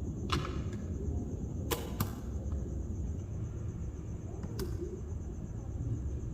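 Small magnetic balls clicking as they snap together: about five sharp clicks, two close pairs in the first two seconds and one more a little after four and a half seconds, over a steady low rumble.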